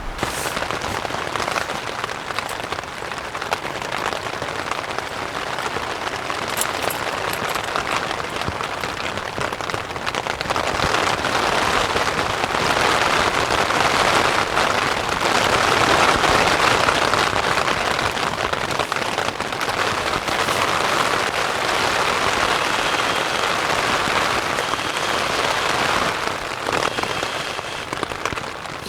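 Rain falling steadily, louder through the middle stretch and easing slightly near the end.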